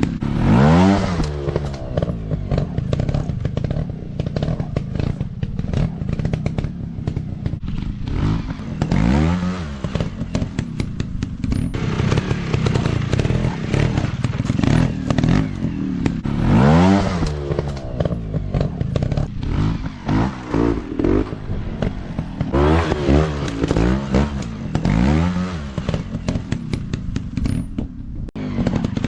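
Off-road dirt bike engine running hard, its pitch rising and falling again and again as the throttle is opened and closed, with clattering knocks mixed in.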